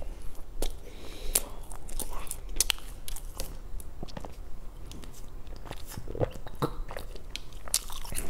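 Close-miked chewing of soft pastry: wet mouth clicks and smacks at an uneven pace, with sips and swallows from a bottled drink partway through.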